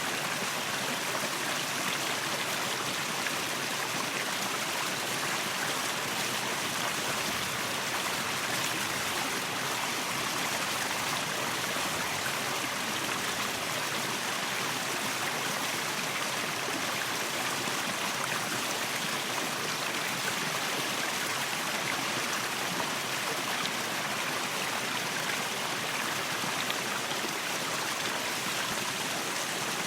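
Waterfall: falling water rushing and splashing in a steady, unbroken hiss, stronger in the upper range than in the low rumble.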